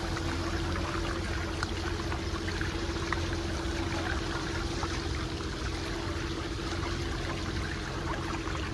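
Tour boat on a stream: a steady low engine hum under water splashing and trickling along the hull.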